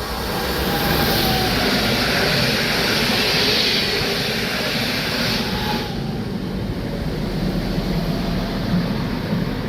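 PKP Intercity passenger train passing through the station: a loud rush of wheel and rail noise that cuts off sharply about six seconds in, leaving a lower rumble.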